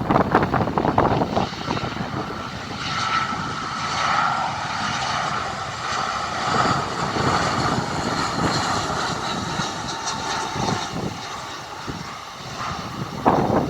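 An airliner's engines passing on a landing approach: a steady two-tone whine sets in about three seconds in and fades shortly before the end. Strong wind gusts buffet the microphone at the start and again at the end.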